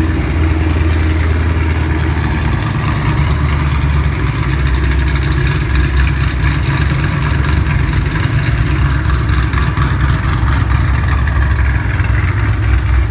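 A 2008 Ford Mustang GT's 4.6-litre V8 idling steadily through BBK long-tube headers, a BBK X-pipe and a Borla ATAK exhaust, which has a header leak.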